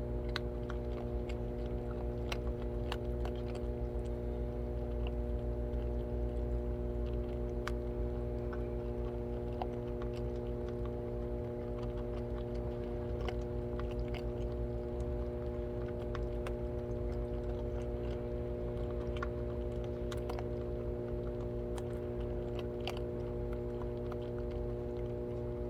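Cats eating, with scattered sharp clicks and crunches of chewing. A steady low hum underlies it throughout.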